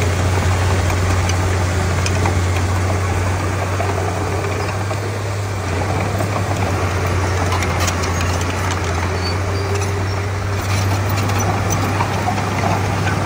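Komatsu D31P bulldozer's diesel engine running steadily with a deep, constant hum, easing off slightly a few seconds in and again near ten seconds.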